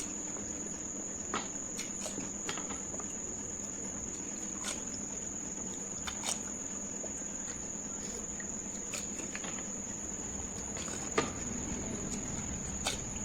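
A steady high-pitched whine, with a few scattered soft clicks and crunches of panipuri being eaten.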